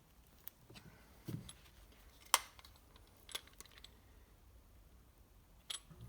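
Piston and ring compressor being worked into an engine cylinder: a few scattered light metallic clicks, the sharpest about two seconds in, with a duller knock just before it.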